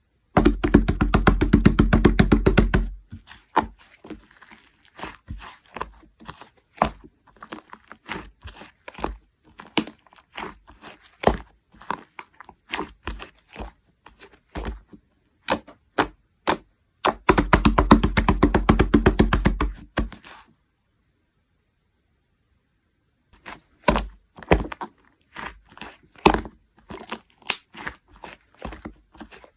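Chewy slime being pressed and poked by hand: two runs of rapid crackling clicks, with scattered sharp pops and clicks between them and a short pause near the end.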